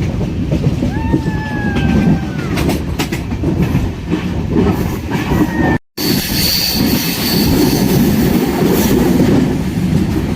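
Passenger train running along the rails with a steady low rumble and clatter of the wheels. A thin wheel squeal rises and holds for about a second and a half early on, and a higher squeal follows just after a brief cut-out in the middle.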